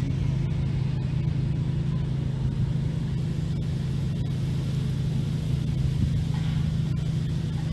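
Steady low mechanical hum, like an engine running, with a few faint clicks.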